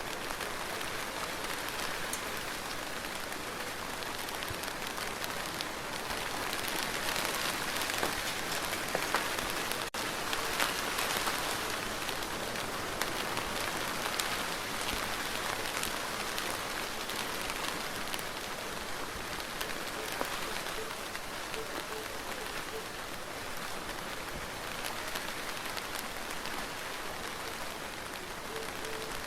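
Steady rain falling on a hard surface, a dense patter of drops that swells slightly for a few seconds in the first half.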